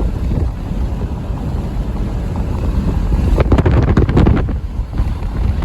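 Idling diesel freight locomotives making a steady low rumble, with wind buffeting the microphone. A louder, rougher burst of noise comes about three and a half seconds in and lasts about a second.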